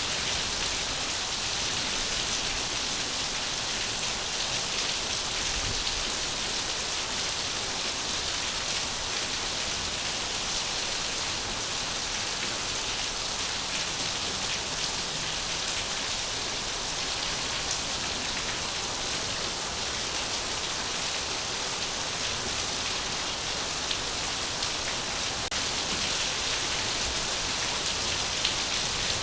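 Steady rain falling: an even, unchanging hiss with faint ticks of single drops scattered through it.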